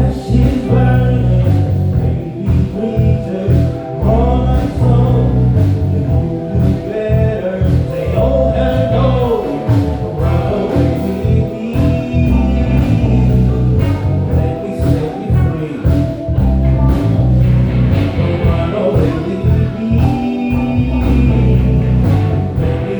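A live band playing soul music: electric bass and drums driving a steady groove under keys, with a wavering lead melody over the top.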